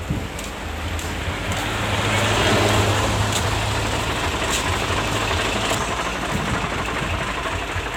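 A truck on the move: a steady low engine drone with road noise, growing louder about two seconds in and then holding steady.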